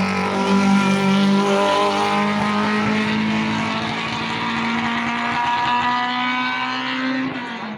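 Rally car engine running hard at high revs, a steady droning tone with slowly shifting pitch, cut off abruptly near the end.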